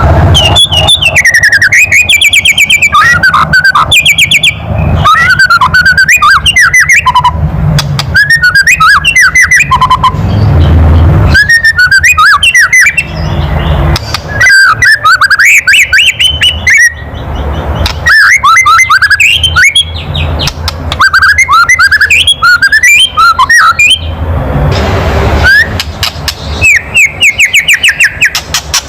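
White-rumped shama (murai batu) giving loud harsh 'kretekan' rattle calls: fast runs of clicks a second or two long, repeated over and over, mixed with short whistled notes that glide up and down. It is the agitated rattle that keepers play to provoke a shama.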